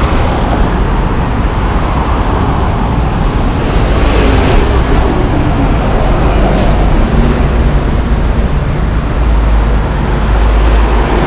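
Loud, steady street traffic: car and bus engines and tyres passing close by, with a falling engine note about four seconds in and a brief hiss about two-thirds of the way through.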